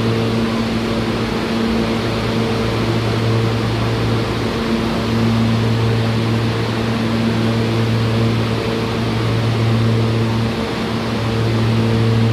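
New York City subway train noise in the station: a steady loud hum, with a low droning tone over a rushing noise. The drone drops out briefly twice.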